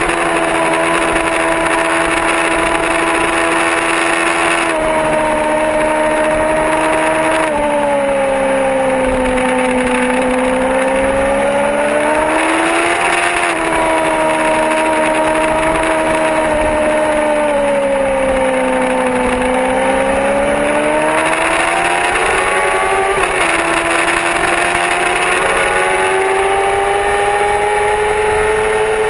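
Yamaha R6 sport bike's inline-four engine running hard at high revs on track. Its pitch sags and climbs smoothly with the throttle through the corners, with several sudden drops in pitch as gears are shifted.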